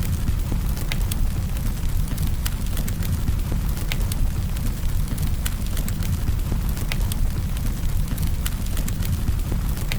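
Campfire burning: a steady low rumble of flames with irregular sharp crackles and pops of burning wood.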